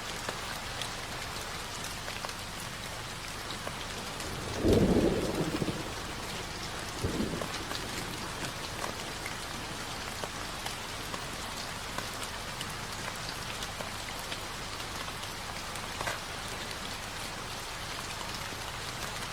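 Steady rain hiss from a rain ambience track. About five seconds in comes a low rumble of thunder lasting about a second, and a smaller rumble follows about two seconds later.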